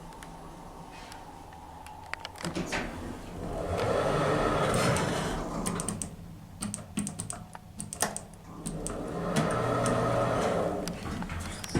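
Lift's sliding doors running open and then shut, each movement a rattling rush of about two and a half seconds, with scattered clicks and clunks from the door mechanism.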